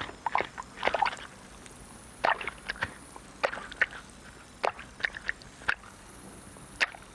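Irregular short, wet squelches and clicks, a dozen or so spread unevenly, over a faint steady underwater background, laid on as the sound of a newt feeding on bloodworms.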